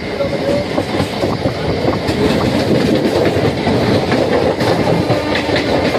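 Running noise of an Indian Railways train heard from inside a moving coach: steady rumble with irregular clatter of wheels over rail joints and points, and a few brief squeals.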